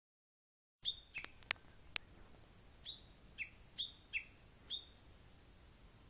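A wild bird calling: short, clear notes that each drop in pitch, about one every half second, starting about a second in. A few sharp ticks come among the first notes.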